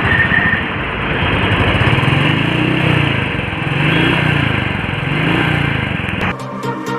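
Royal Enfield Thunderbird's single-cylinder engine running and being blipped, its note rising and falling about four times. It cuts off abruptly near the end, replaced by music.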